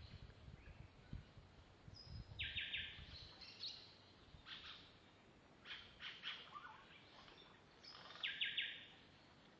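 Birds calling: a fast, harsh rattling call about two seconds in, repeated more loudly near the end, with shorter high calls between. A few low knocks sound in the first second or so.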